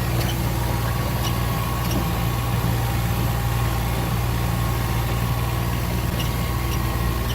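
Vehicle engine running steadily at low speed, a constant low hum with a few faint ticks and rattles on top.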